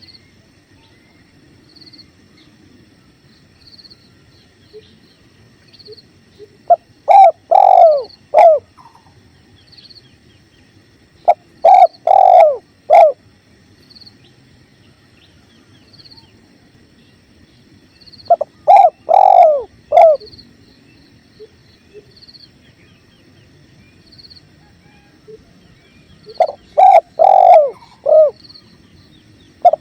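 Spotted dove (tekukur) cooing: four phrases of several low coos each, spaced at irregular intervals of several seconds. Under them run the faint steady rush of a flowing river and a soft high chirp repeating about once a second.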